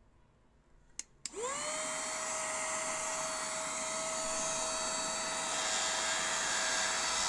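Cordless mini handheld vacuum cleaner switched on with a click about a second in; its motor spins up with a quickly rising whine, then runs steadily with a high whine over an airy hiss.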